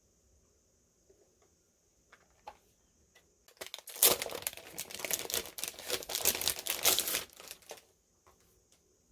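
Unboxing packaging crinkling as it is handled: a loud, dense crackle lasting about four seconds in the middle, after a few light taps and clicks.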